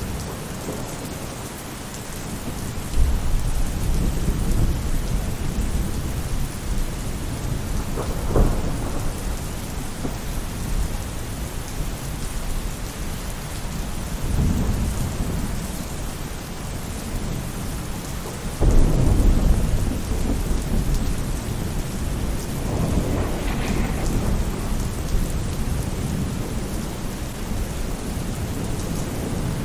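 Steady rain falling on a roof, with rolls of thunder rumbling every few seconds; the loudest roll breaks about two-thirds of the way through.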